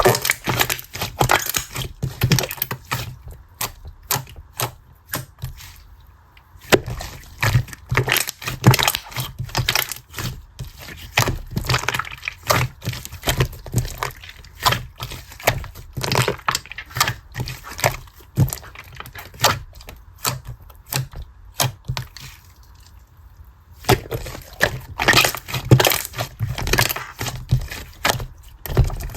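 Dense, irregular crackling and clicking in bursts, with two quieter pauses.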